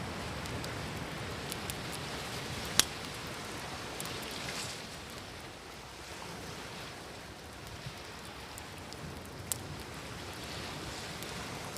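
Campfire crackling with sharp pops of burning wood, the loudest about three seconds in, over a steady wash of ocean waves that swells and eases.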